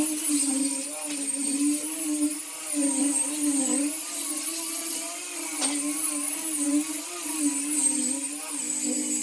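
Electric power tool motor running steadily with a high whine, its pitch dipping and recovering again and again as it is loaded against the wood.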